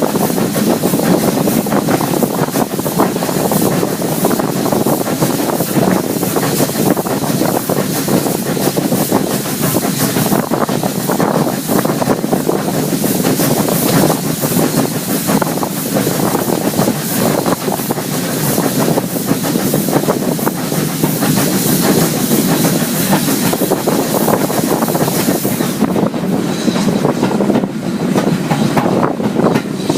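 Train under way, its wheels clattering steadily over the rails with a constant hiss; the high hiss drops away near the end.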